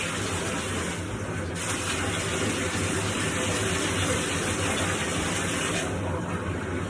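Water running steadily into a bathtub from the tap, with the hiss thinning briefly about a second in and again near the end.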